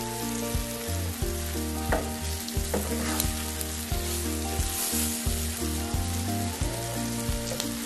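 Stuffed okra frying in oil in a nonstick pan, a steady sizzle, with a spatula scraping and knocking against the pan now and then as the pods are stirred and turned.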